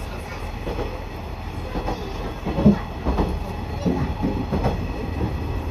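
Cabin noise of a KiHa 100 series diesel railcar on the move: a steady low rumble from the running train, with children's voices and chatter rising over it in the middle.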